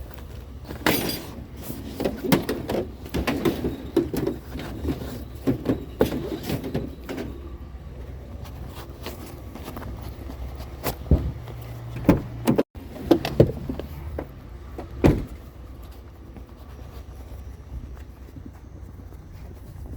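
A vehicle running with a steady low rumble, over which come many knocks and rattles, thickest in the first seven seconds and again in a few sharp knocks a little past the middle.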